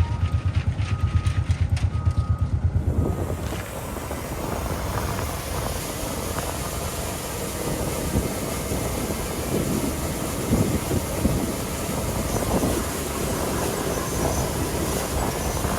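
Heavy diesel earthmoving machine at work on gravel. For about the first three seconds its engine throbs at a rapid even pulse while a reversing alarm beeps about twice a second. Then the beeping stops and a steadier, noisier engine sound carries on.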